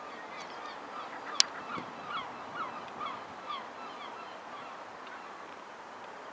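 A bird calling in a quick series of short, falling cries for about three seconds, over a steady background noise. A single sharp click sounds about a second and a half in.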